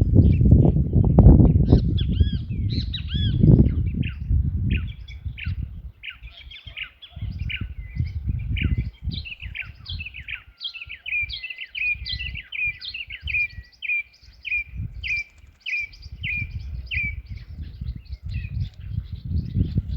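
Several wild birds calling and chirping, with one bird repeating a short call about twice a second through the second half. Under the calls is a loud, gusty low rumble, strongest in the first few seconds.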